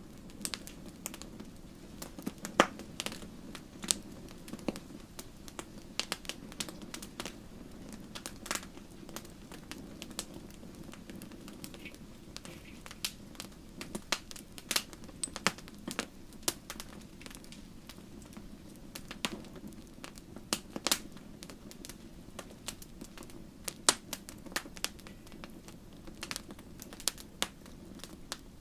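Wood fire crackling in a fireplace: irregular sharp snaps and pops, several a second and some louder than others, over a low steady rush from the flames.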